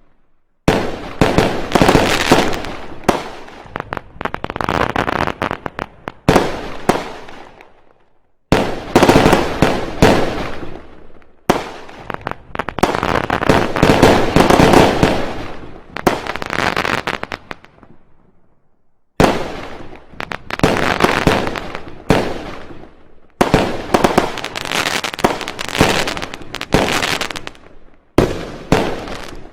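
Fireworks going off: dense volleys of sharp bangs and crackling. They come in several bursts a few seconds long, each starting suddenly and dying away before the next.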